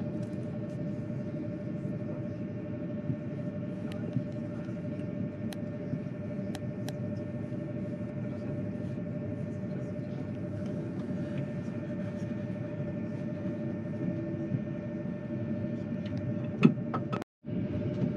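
Cabin noise inside a Thalys high-speed train: a steady rumble with a steady hum and a few light clicks. Near the end there is a sharp click, then the sound cuts out for an instant.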